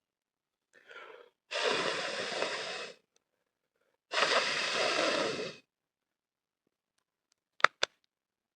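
A person blowing hard on a campfire's embers in two long breaths, after a short softer puff, to revive a fire that water has nearly put out. Two sharp cracks follow near the end.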